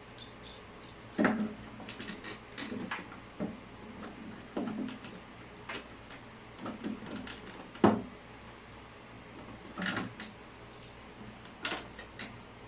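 Irregular knocks and clicks of hard objects being handled, about a dozen in all, the sharpest about eight seconds in.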